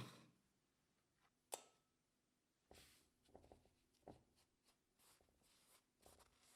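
Near silence broken by faint handling sounds: a sharp click at the start, another about a second and a half in, then a run of light scrapes and small clicks.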